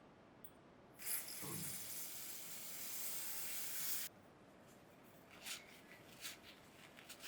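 Spray hissing from a nozzle: one long spray of about three seconds, then several short spurts.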